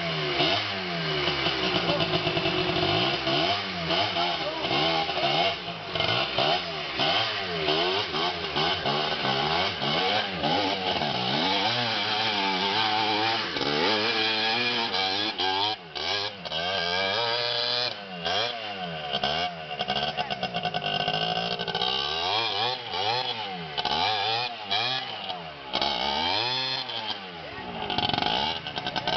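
Dirt bike engines revving up and down over and over, their pitch rising and falling every second or two as the throttle is worked.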